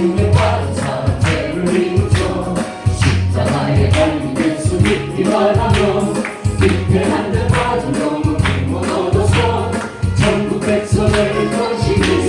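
Korean gospel praise song: singing over a band with a steady beat, a strong bass and tambourine.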